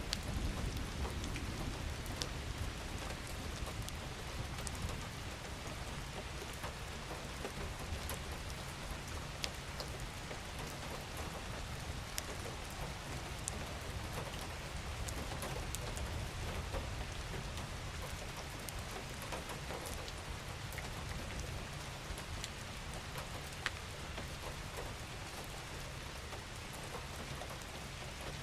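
Steady rain falling, with scattered single drops ticking over an even patter and a low rumble underneath that is strongest in the first couple of seconds.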